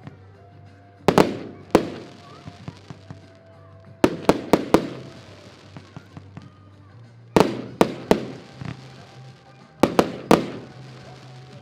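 Diamond Pyro Master firework battery (138 shots) firing: salvos of two to four sharp bangs about every three seconds, each bang trailing off as it rings out.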